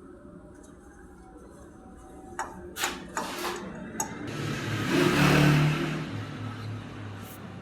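A few sharp metallic clicks, then a motor vehicle's engine sound that swells up and fades away, like a vehicle passing by.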